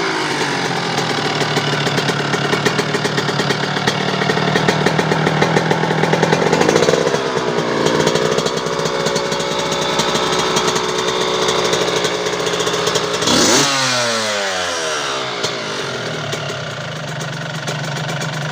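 Suzuki RM125 two-stroke single through a DEP Pipes exhaust, revved in place: it idles, the revs are raised and held for several seconds, then a sharp throttle blip about 13 seconds in falls quickly back to idle.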